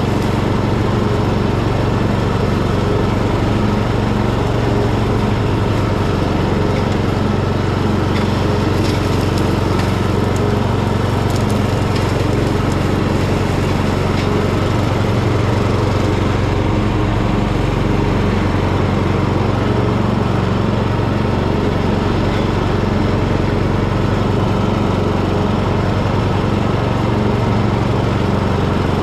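Hecht ride-on garden tractor mowing overgrown grass: the engine runs at a steady speed with the cutting blades spinning, a constant hum.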